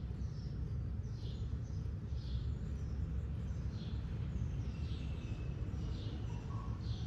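A small bird chirping: short, high, downward-sliding chirps about once a second, over a steady low outdoor background rumble.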